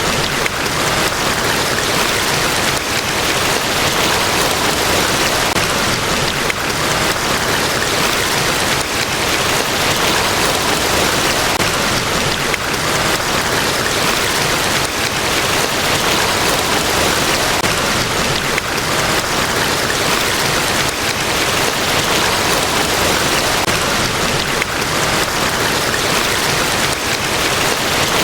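The steady, unbroken rush of a large waterfall, Niagara Falls, the water's noise spread evenly from low to high pitch with no change in level.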